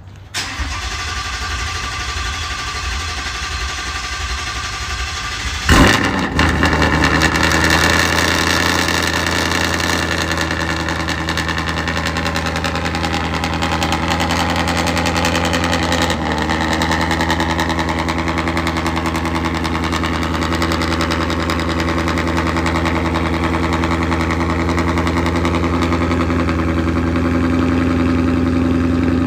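Engine cold start: the starter cranks for about five seconds, then the engine catches with a loud burst and settles into a steady idle.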